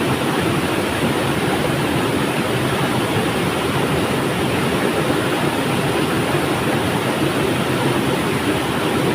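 River water flowing, a steady, even rush of water noise.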